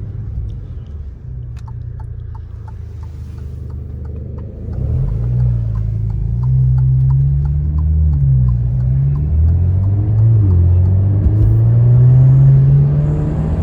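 Alfa Romeo Giulia 2.0L four-cylinder through a Madness Monza aftermarket exhaust: a low rumble at steady speed for the first few seconds. About halfway in it gets louder and the engine note climbs under acceleration, drops back twice at upshifts and climbs again. A light ticking, about three a second, sounds over the rumble at the start.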